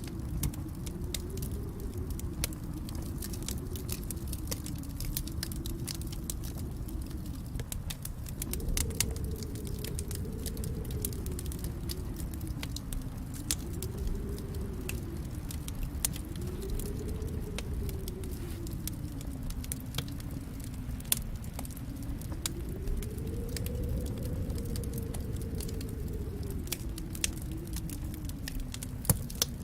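Wood fire in a fireplace crackling, with irregular sharp pops and snaps over a steady low rumble of the flames; a few louder pops stand out.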